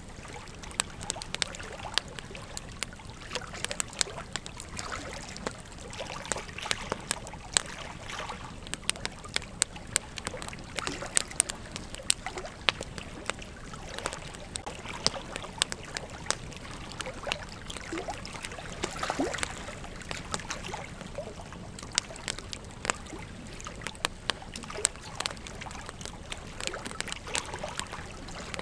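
Campfire crackling: irregular sharp snaps and pops of burning wood over a steady low hiss.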